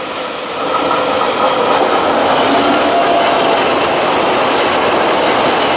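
Electric commuter train passing close by: the steady noise of wheels on rail with the clatter of rail joints, growing louder about a second in as the cars reach the microphone, with a thin steady whine over it.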